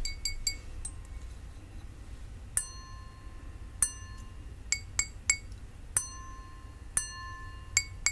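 Two drinking glasses tapped in turn. The plain glass gives short, dull, clunky clinks. The crystal glass rings on after each tap with a clear, bell-like tone.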